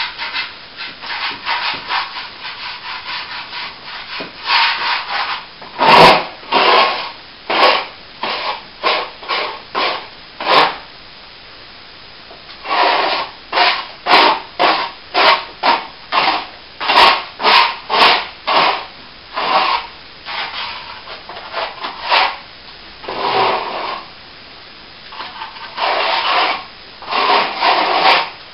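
Set plaster on a crack repair being rubbed back by hand in quick back-and-forth strokes, about two a second, in runs with short pauses between them.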